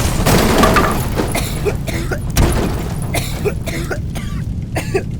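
Firework cake shots bursting into crackling willows: many sharp crackles and pops. The first second is louder, as a shot's boom fades.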